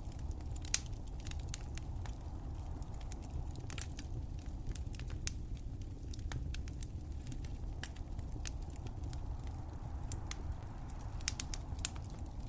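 Crackling fire: a steady low rumble of burning under frequent sharp pops and snaps, with one louder pop about a second in and a cluster of louder pops near the end.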